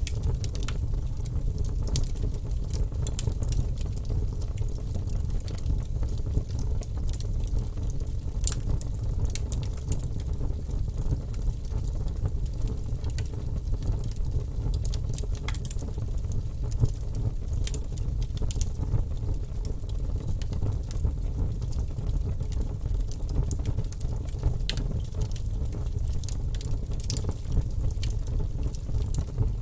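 Fire burning in a fireplace: a steady low rumble with frequent sharp crackles and pops scattered throughout.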